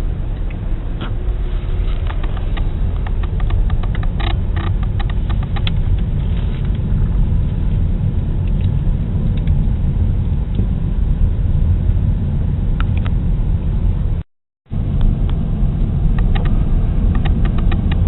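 Steady low rumble of a car's engine and road noise, heard from inside the cabin, with faint light ticks and rattles. The sound drops out completely for about half a second around fourteen seconds in.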